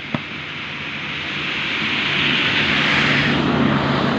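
Massey Ferguson tractor engine running, growing louder toward the middle and easing slightly near the end, with a steady low hum; a single click sounds just after the start.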